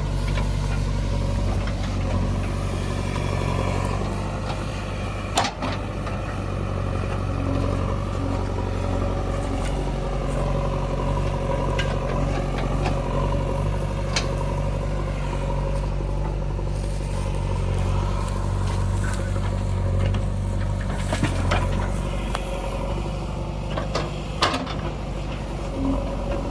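Heavy diesel engine of the digging machinery running steadily, with a few sharp metallic clanks scattered through.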